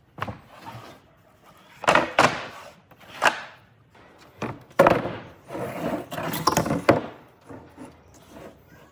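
Wood being handled and worked: a series of knocks and scraping rubs, with the loudest knocks about two and five seconds in.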